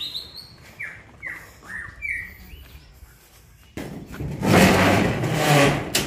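Birds chirping: a few short whistled notes in the first two seconds. Then a loud rushing noise with a low hum under it sets in about four seconds in and lasts until the end.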